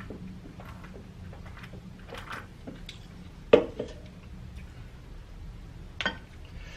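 Close-miked eating sounds: chewing and small mouth clicks. A sharp knock comes about three and a half seconds in, the loudest sound here, and a smaller one near the end.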